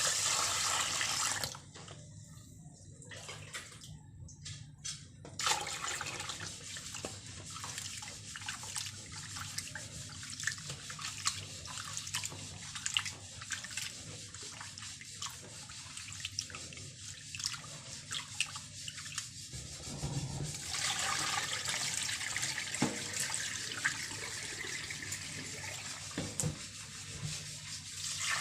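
Water running and splashing at a sink, with rubbing and small clicks as things are washed; the flow stops briefly a couple of seconds in and is stronger again in the latter part.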